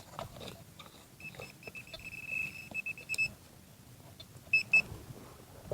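Metal detector signalling over a buried target: a high beeping tone, stuttering into short pulses, lasts about two seconds, then two short beeps of the same pitch come near the end.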